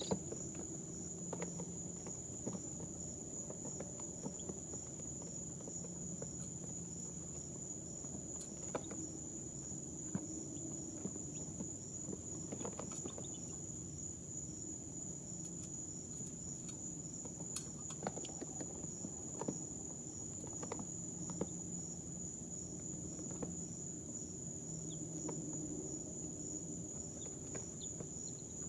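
Baby chicks shuffling in a brooder: scattered small taps and scratches over a steady high-pitched whine and a low hum.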